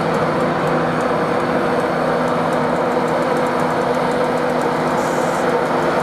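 A train's engine idling steadily, a constant hum of several steady tones with no change.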